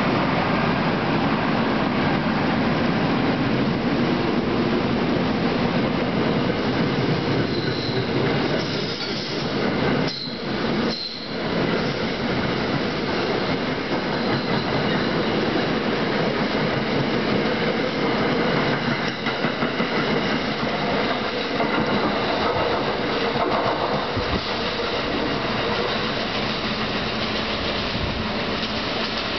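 NJ Transit Comet V commuter coaches, hauled by an ALP-46A electric locomotive, rolling out of the station past the platform, steel wheels running on the rails in a steady dense rumble, with a brief high wheel squeal about a third of the way in.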